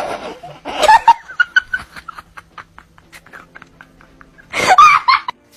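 A person laughing in bursts: loud at the start, again about a second in, then a run of short rapid snickers before another loud burst near the end.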